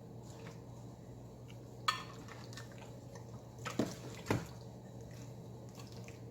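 A sharp clink about two seconds in, then two duller knocks a little past the middle, as kitchen containers and utensils are handled and set down against a pan or counter, over a steady low hum.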